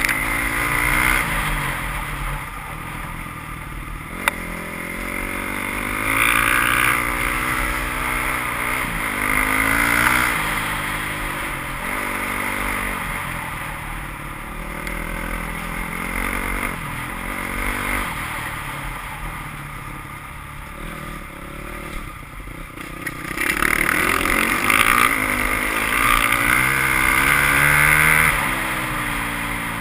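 Enduro dirt bike's engine heard from on board, revving up and easing off over and over as it rides a dirt trail, louder during two stretches of harder throttle. A single sharp click about four seconds in.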